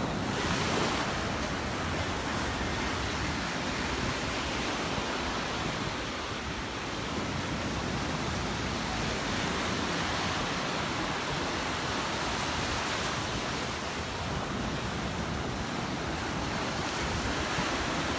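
Ocean surf washing onto the beach: a steady rush of breaking waves that swells and eases gently, with some wind on the microphone.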